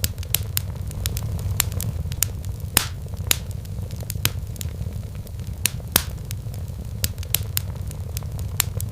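Wood fire crackling in a fireplace: irregular sharp pops and snaps, two louder ones about three and six seconds in, over a steady low rumble.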